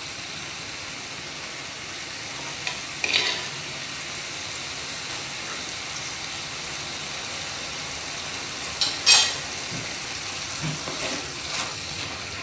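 Sliced ridge gourd frying in coconut oil with a steady sizzle, while a wooden spatula stirs it and scrapes against a clay pot, once about three seconds in and more loudly about nine seconds in, with a few light clicks after.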